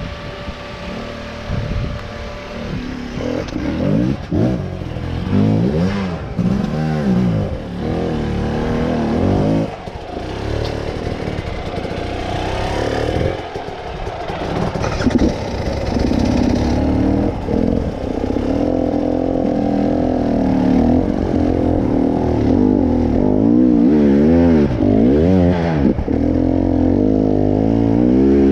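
Vehicle engine revving repeatedly on a trail, its pitch rising and falling over and over, with some clatter, busier in the second half.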